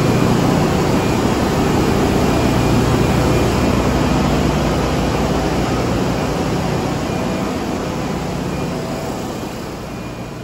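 Steady, loud din of a ship's engine room: electric-motor-driven pumps and other running machinery, a dense noise with a low steady hum underneath. It grows gradually quieter near the end.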